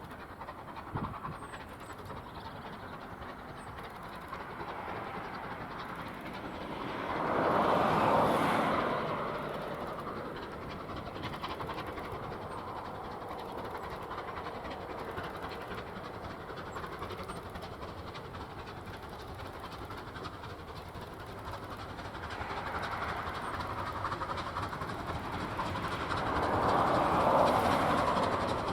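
Steam-hauled train running on the line: steady rail noise with wheel clatter, swelling loudest about eight seconds in and again near the end.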